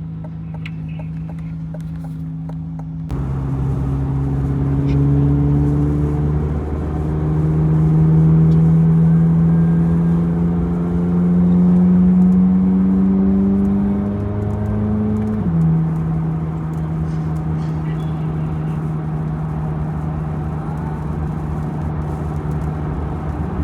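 Chevrolet Corvette C8 Z06's flat-plane-crank V8 driving along, growing louder about three seconds in, its pitch climbing slowly for several seconds, then dropping suddenly about fifteen seconds in at a gear change and settling to a steady cruise.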